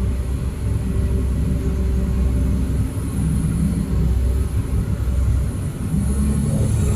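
Heavy diesel engine of construction machinery running steadily, a continuous low rumble with a faint high hiss above it.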